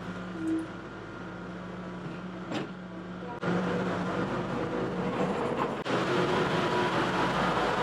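Skid steer engine running steadily, turning louder and rougher about three and a half seconds in.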